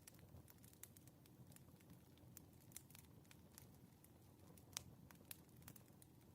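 Faint crackling wood fire: irregular small pops and snaps over a low, soft rumble, with one louder pop about three-quarters of the way through.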